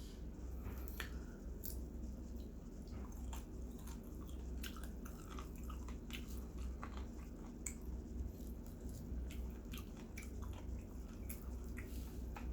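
Roasted chicken being pulled apart by hand and chewed: scattered small wet clicks, tearing and chewing sounds, over a steady low hum.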